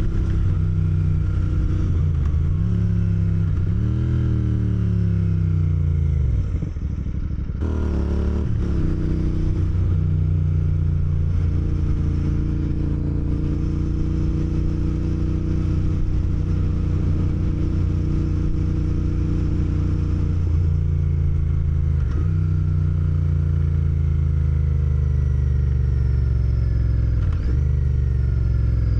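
Motorcycle engine running under way, its revs rising and falling through gear changes in the first several seconds and then holding fairly steady at a cruise.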